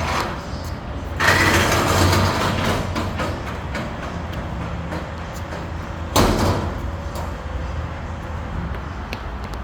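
Garbage truck engine running steadily, with two loud bursts of hissing noise: a longer one about a second in, and a sudden one about six seconds in that fades over about a second.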